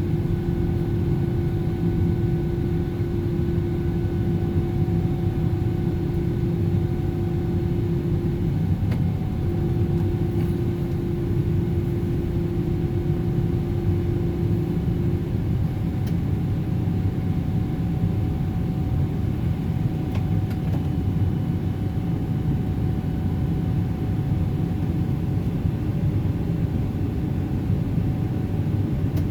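Steady engine and airflow rumble inside the forward cabin of a Boeing 777-300ER, with a steady hum that breaks once and stops about halfway through.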